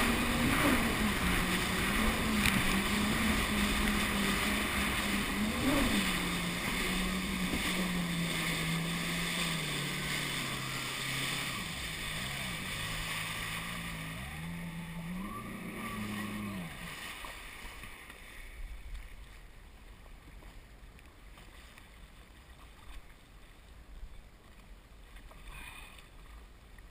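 Jet ski engine running at a steady speed, easing down about ten seconds in, revving up and down briefly a few times, then cutting out about two-thirds of the way through. Faint water and wind noise remain afterwards.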